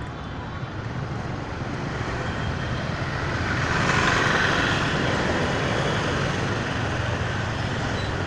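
Road traffic noise with a steady low engine hum, swelling to a louder rush about four seconds in and then easing off.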